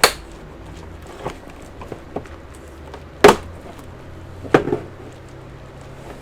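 A few sharp knocks and clicks from handling the all-in-one computer on the bench: a loud one at the start, another about three seconds in and a double knock about a second and a half later, with lighter clicks between, over a faint low hum.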